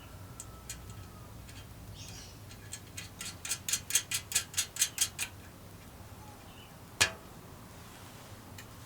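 A quick run of about a dozen sharp clicks, roughly five a second, then about two seconds later a single louder knock.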